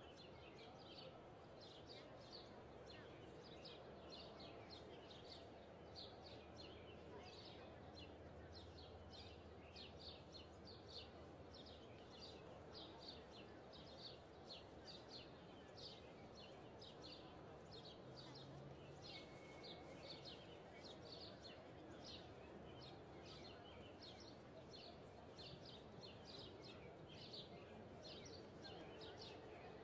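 Small birds chirping over faint steady background noise: many quick, high chirps repeating throughout.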